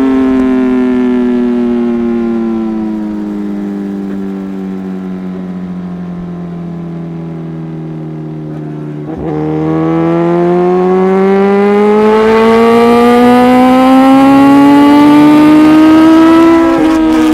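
Liter-class inline-four superbike engine through a full Yoshimura exhaust, running loud. Its note falls steadily for about nine seconds as the throttle is eased off. After a click it rises again for about eight seconds under acceleration, with a short dip in pitch near the end.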